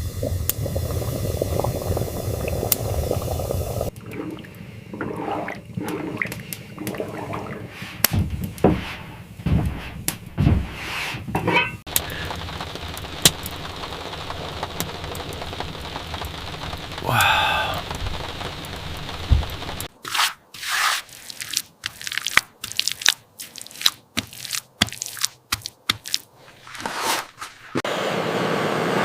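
A steady hiss, then a long series of irregular crunches, clicks and knocks, with one brief pitched creak about halfway through and sharp separate clicks with short quiet gaps late on; the hiss returns near the end.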